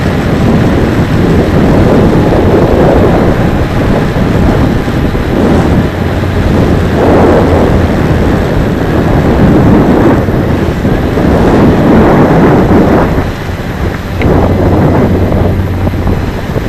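Strong gusting wind buffeting the microphone, a loud rough rush that swells and eases every second or two.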